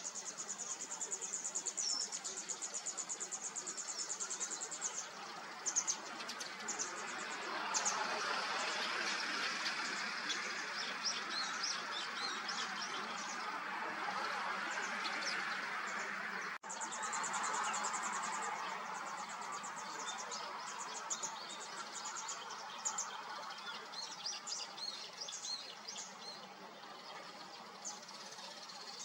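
Small birds chirping repeatedly, with a rapid high trill at the start and again just after the middle, over a steady rushing background noise.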